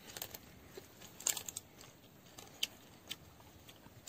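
Children biting and chewing roasted rat meat: scattered crisp crunches and clicks, the loudest about a second in, with fainter ones later.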